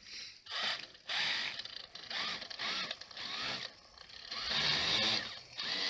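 Twin motors of a 24 V DIY 3D-printed dual friction drive spinning up against the bicycle tyre in about seven short bursts, a rough rushing whine that rises and falls in pitch, the bursts growing longer near the end. This is the test of whether both motors now start together after their ESCs were evened out.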